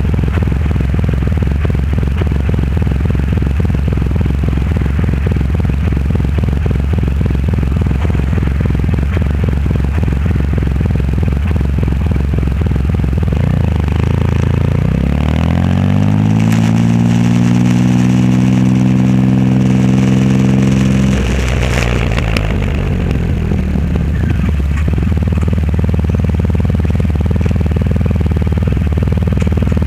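Triumph Rocket 3 Roadster's three-cylinder engine running through a custom exhaust while riding. About halfway through, the note climbs steeply as it accelerates, holds high for several seconds, then drops suddenly back to a low, steady note.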